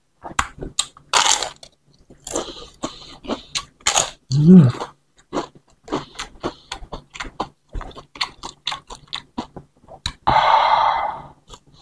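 Close-up chewing and crunching of crispy fried wonton skin, with many short crackles and wet mouth sounds. About four and a half seconds in comes a short hummed "mmm", and about ten seconds in a louder rushing sound lasting about a second as bihun noodles are brought to the mouth.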